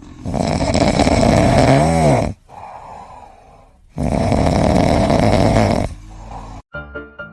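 A pet snoring loudly: two long snores about four seconds apart, the first ending in a short whistling rise and fall in pitch. Piano music starts near the end.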